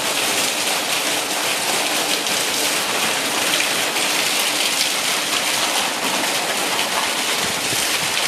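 Monsoon rain coming down hard: a steady, dense hiss of falling drops.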